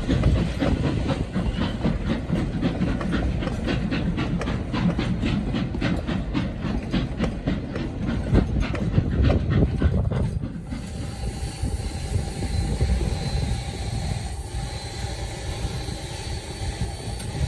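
Narrow-gauge passenger cars rolling slowly by, their steel wheels clicking in a quick regular rhythm over the rail joints over a low rumble. About ten seconds in this gives way abruptly to a standing steam locomotive's steady hiss with a thin, steady hum.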